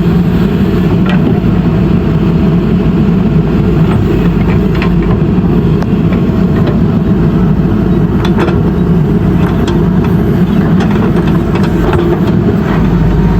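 JCB backhoe loader's diesel engine running steadily, with a few sharp clinks and knocks scattered through.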